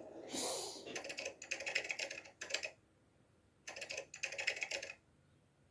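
Rapid typing on a computer keyboard in two bursts, the first about two seconds long and the second about a second and a half, after a brief rush of noise at the start.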